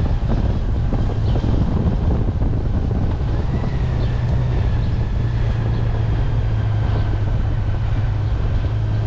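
Honda Gold Wing's flat-six engine running steadily at low town speed, a constant low hum with some wind buffeting on the microphone.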